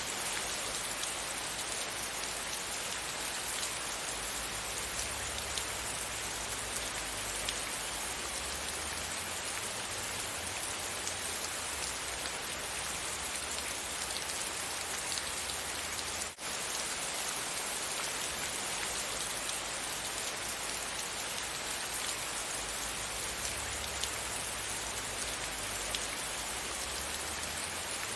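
Steady rain falling, an even hiss of many drops, with a momentary drop-out a little past halfway through.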